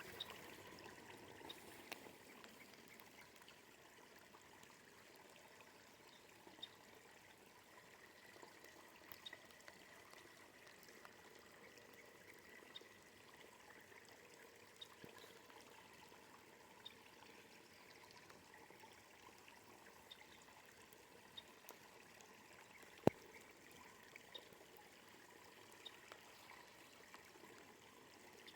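Faint, steady hiss of light rain with scattered small drop ticks. One sharp click a little over 20 seconds in.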